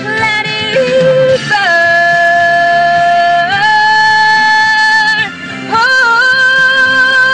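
A woman singing long held notes without clear words, stepping between pitches with short slides, with two brief breaks between phrases.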